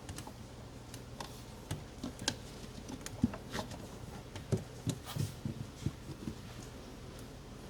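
Light, irregular clicks and knocks of hand work with tools and parts, clustered in the middle, over a steady low hum.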